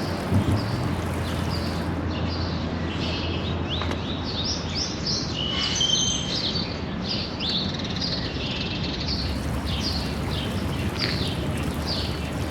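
Small birds chirping, many short quick chirps overlapping one another throughout, over a steady low background hum.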